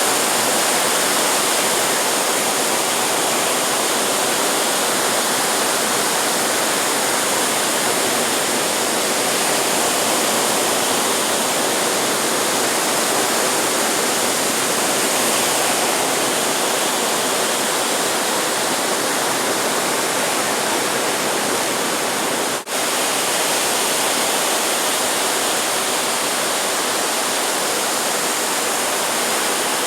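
Steady hiss of ocean surf breaking along the beach. The sound drops out for a split second about three-quarters of the way through.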